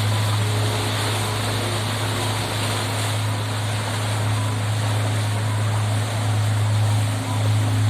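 Steady low drone of a petrol abra's inboard engine running at cruising speed, with the rush of water and wind as the wooden boat crosses the creek.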